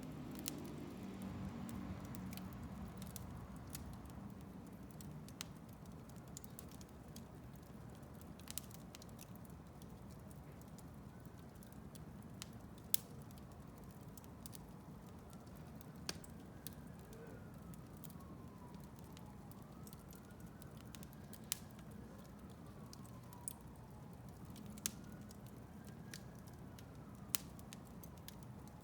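Wood fire burning in a fireplace: sharp, separate crackles and pops every second or two over a steady low rush of flame. A faint whistle rises and falls from time to time.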